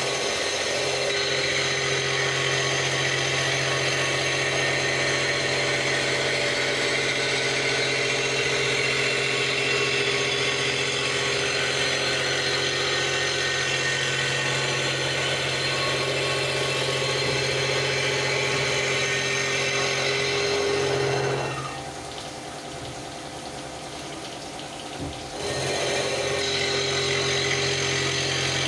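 CNC milling machine cutting a metal pump volute casting, a steady machining noise with a constant hum. About three-quarters of the way through, the cutting drops away for a few seconds, leaving a lower hum, then resumes.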